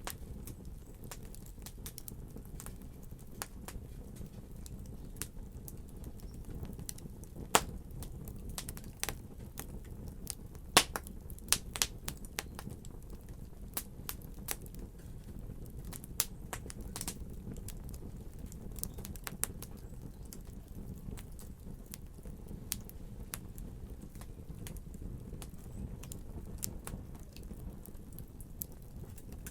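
Wood fire crackling: irregular sharp pops and snaps over a low steady rumble, with a cluster of louder pops partway through.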